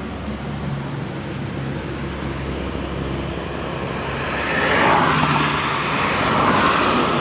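Bus engine running, with a steady low hum that gives way to a louder rushing noise about four and a half seconds in as the bus comes close.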